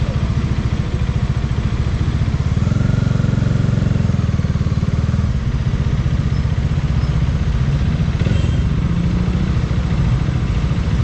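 Bajaj Dominar 400's single-cylinder engine running under way, picking up revs for a moment about three seconds in and then settling back to a steady pulse.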